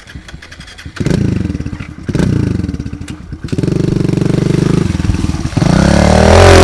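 Small pit bike engine coming to life about a second in and again about two seconds in, then running steadily. It gets much louder and revs up and down near the end.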